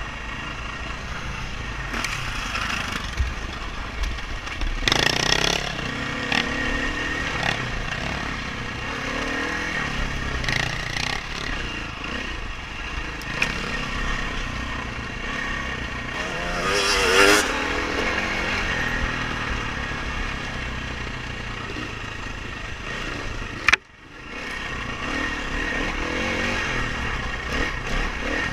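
Dirt bike engine running under varying throttle on a race course, with louder revving surges about five and seventeen seconds in and a sudden click and brief drop in sound a little after twenty-three seconds.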